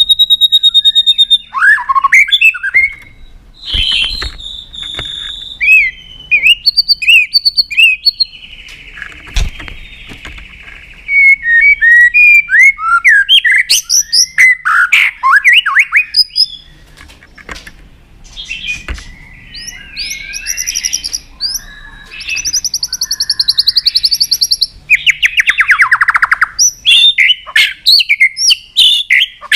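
White-rumped shama singing a long, varied song of clear whistles, rapid trills, sweeping notes and harsh buzzy phrases.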